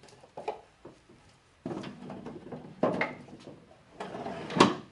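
Small hand-made wooden drawers sliding in and out of their openings in a wooden cabinet, with short scraping slides and several knocks as they seat; the loudest knock comes near the end. The drawers are being test-fitted, and some still run a little stiff.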